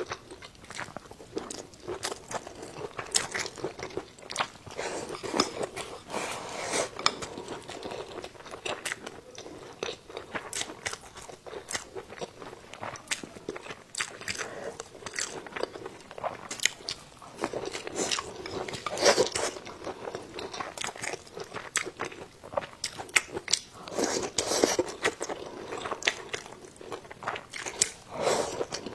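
A person chewing and biting food close to the microphone, with many irregular crunchy clicks and wet mouth sounds.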